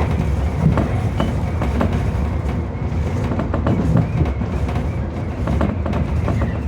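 Tobu 30000 series electric train running along the line, heard from inside the front car: a steady low rumble of wheels on rail with many short clicks and clatters from the track.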